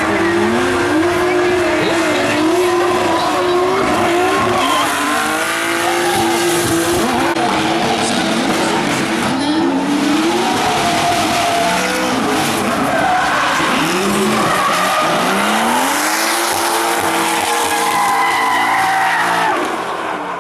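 Drift car engine revving hard, the revs held high with repeated drops and climbs as the throttle is worked, while the tyres squeal and skid in a slide. The sound falls away near the end.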